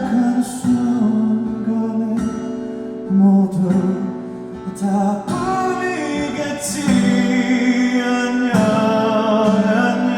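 Live music: a male singer with acoustic guitar accompaniment, recorded from the audience.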